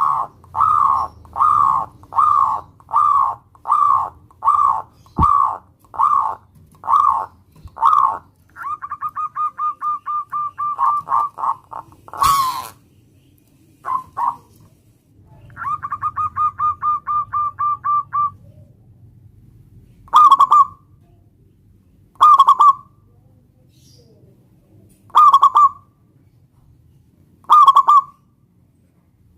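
Zebra dove (perkutut) cooing. It gives a run of short coos about two a second, then two fast rolling trills, then single loud coos a few seconds apart. A sharp click comes about twelve seconds in.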